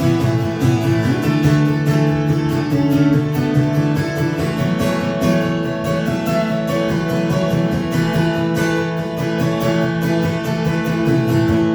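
Acoustic guitar strummed in a steady rhythm, an instrumental passage between sung lines of a live song.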